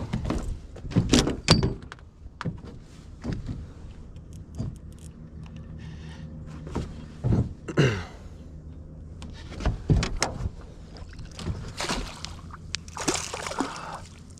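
Scattered knocks and thumps against a boat, with splashing water near the end, as a hooked smallmouth bass is netted and brought aboard.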